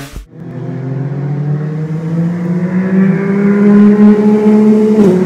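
Motorcycle engine under way, its pitch climbing slowly as it gathers speed, then dropping briefly near the end as a gear is changed.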